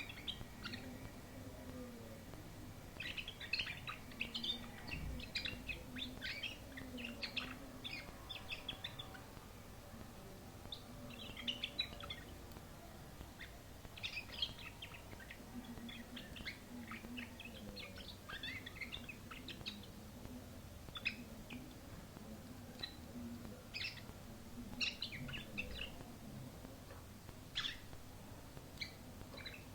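Domestic canary singing: quick runs of trilled, chirping phrases packed close together through the first half, then shorter, separate notes and brief phrases a second or two apart.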